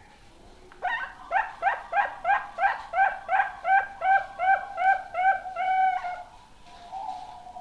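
Young zebra dove (perkutut) calling: a quick run of about fourteen short cooing notes, about three a second, slowing slightly and ending on a longer held note.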